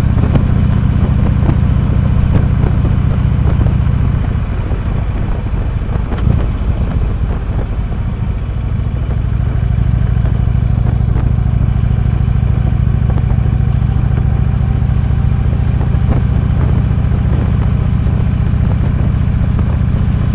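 Harley-Davidson V-twin engine running as the motorcycle rides along, heard from the handlebars. The engine note drops back for a few seconds about four seconds in, then comes up again and holds steady from about ten seconds in.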